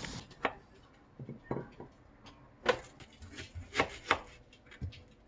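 Kitchen knife chopping on a cutting board: a dozen or so short, sharp knocks at an uneven pace, with pauses between them.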